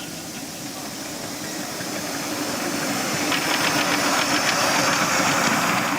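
Miniature live-steam locomotive hissing and chuffing, growing louder as it comes closer, with rapid exhaust beats over the last few seconds.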